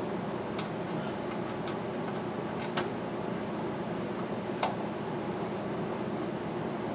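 Scattered light clicks and taps from hand work on cab hardware over a steady background hum; the sharpest click comes about two-thirds of the way through.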